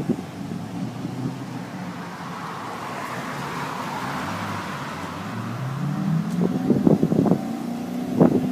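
Kit car engine running, then rising steadily in pitch from about five seconds in as it revs up. Several sharp knocks come near the end.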